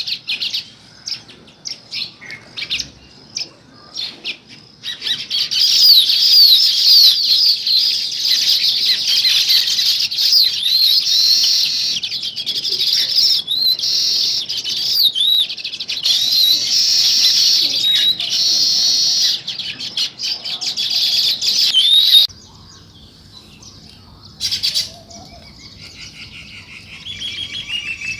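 Sparrows chirping. A few scattered chirps build into a loud, dense chorus of many overlapping chirps, which cuts off abruptly near the end to quieter, sparser chirping.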